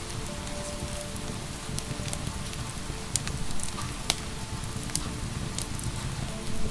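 Steady rain hiss with the scattered sharp pops and crackles of a wood fire, about one every second, over faint soft sustained music tones.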